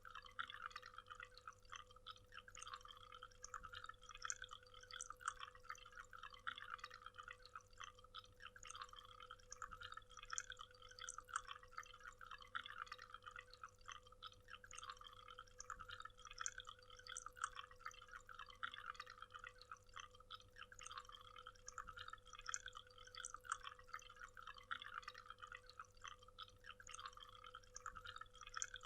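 Waterfall: water falling and splashing in a faint, steady, dense patter of drips and trickles.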